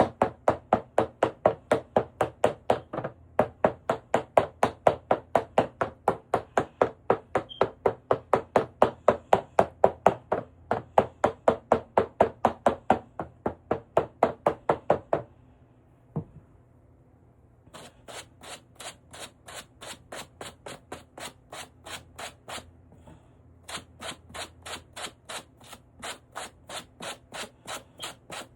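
Rhythmic back-and-forth rubbing strokes, about three a second. They stop for about two seconds a little past halfway, with a single knock in the gap, then start again lighter and brighter, with one short break.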